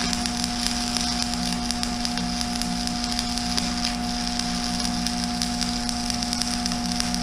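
Stick welding arc burning a 7018 rod: a steady crackling sizzle with a steady hum underneath.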